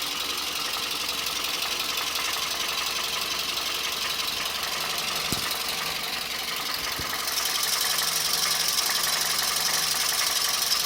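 Toyota Camry engine idling with its accessory drive belt removed, a metallic knock coming from inside the motor. The uploader puts the knock down to out-of-round (oval) bores in cylinders 3 and 4. The sound grows slightly louder and brighter about seven seconds in.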